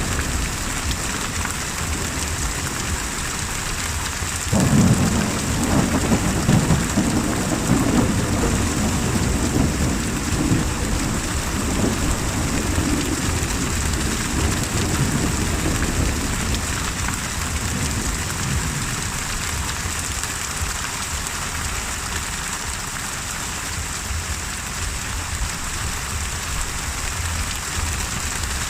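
Steady heavy rain with a thunderclap breaking about four seconds in, its low rumble rolling on and fading away over about ten seconds.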